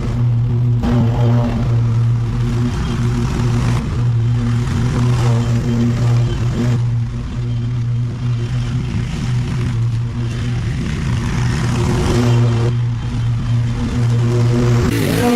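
Small petrol engine of outdoor power equipment running steadily at a constant speed, with abrupt breaks every few seconds where separate clips are cut together.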